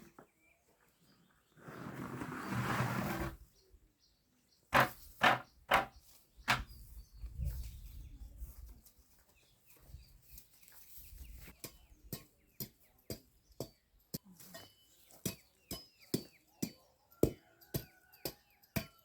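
A run of sharp knocks that grows fairly regular, about two a second, in the second half, with birds chirping. A short burst of noise comes a couple of seconds in.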